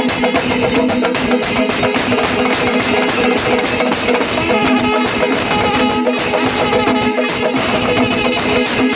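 Kerala temple melam: an ensemble of drums and cymbals beating fast and steadily, with a wind instrument holding a long steady note over it.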